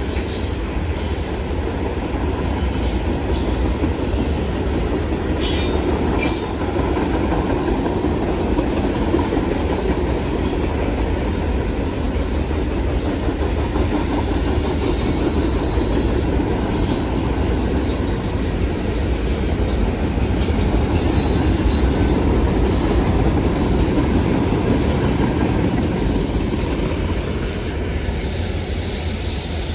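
A train passing close by: a steady rolling rumble of wheels on rail, with short high-pitched wheel squeals about halfway through and again later on.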